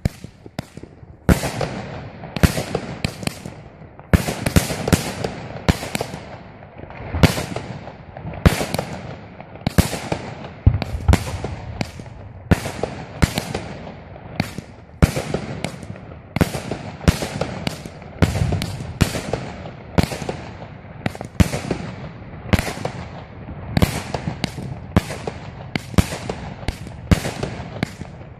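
Fireworks going off in a long, irregular string of sharp bangs, roughly one to two a second, each one echoing as it dies away.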